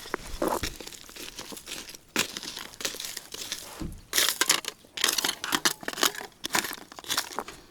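Packaging being crinkled and torn open by hand, in irregular crackly rustles that grow denser from about halfway through.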